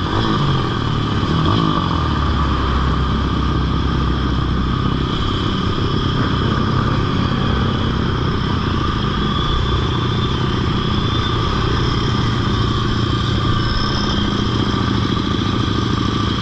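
Pitbike engine running at a fairly steady speed, with no big revs.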